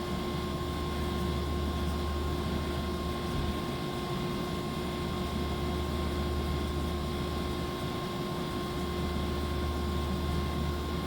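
Hyd-Mech V-20 vertical band saw running: a steady machine hum with a few held tones over an even mechanical noise.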